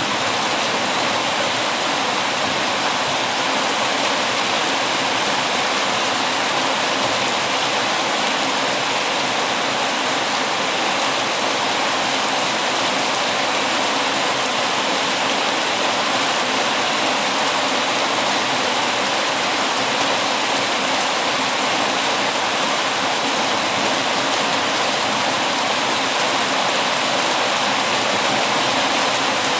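Heavy rain falling in a steady, even hiss, with no distinct drips, crackles or thunder standing out.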